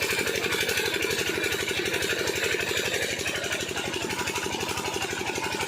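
8 hp single-cylinder diesel pumpset engine running steadily, with an even, rapid chug of firing strokes.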